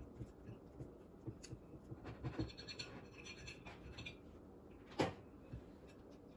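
A knife cutting through food and scraping against a plate, with scattered small scrapes and clicks and one sharp clack about five seconds in.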